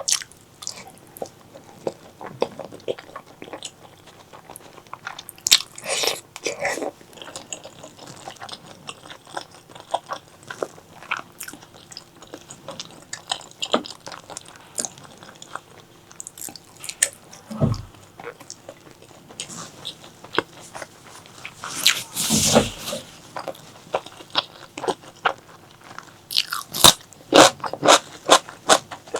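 A person eating: chewing with frequent crunchy bites, a longer noisy mouth sound a little past the middle, and a quick run of loud crunches near the end.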